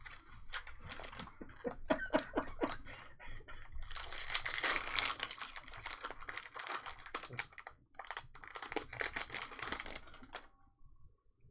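Trading card pack wrappers crinkling and tearing open, with the cards clicking and flicking as they are handled. The densest crinkling comes about four seconds in and lasts a few seconds.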